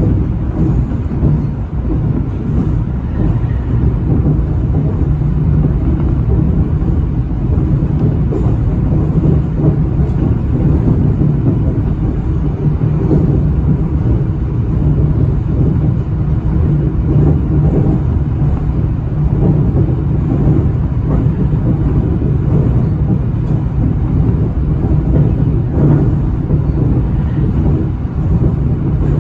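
Shizuoka Railway A3000-series electric train running along the line, heard from inside the train: a steady, even rumble of wheels on rails and running gear.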